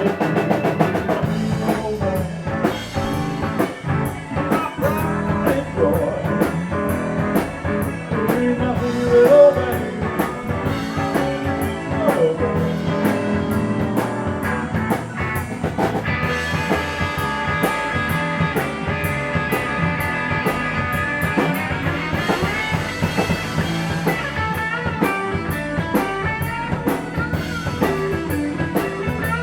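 Live blues-rock band playing: electric guitar lead over bass and drum kit, with a steady beat of cymbal strokes.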